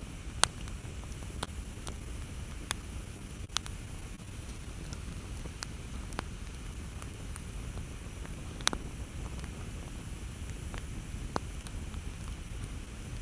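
Campfire crackling: sharp pops of burning wood at irregular intervals over a steady low rumble, with the loudest pops just after the start and about two-thirds of the way through.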